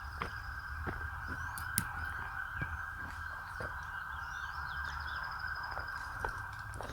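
Footsteps on storm debris, a soft crunch about once or twice a second, with faint birds chirping, all under a steady hiss that cuts off suddenly near the end.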